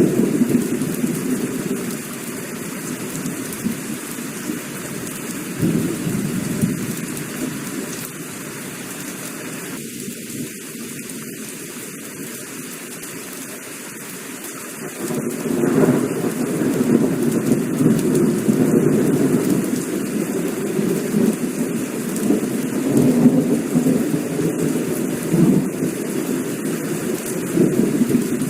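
Heavy rain falling steadily with thunder rumbling. Long low rolls of thunder come near the start and again through the second half, with a quieter lull in between.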